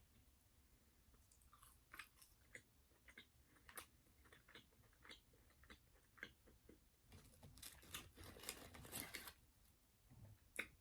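Faint close-miked chewing of crunchy KFC fried chicken: scattered crisp crunches and mouth clicks, with a denser run of crunching about seven to nine seconds in.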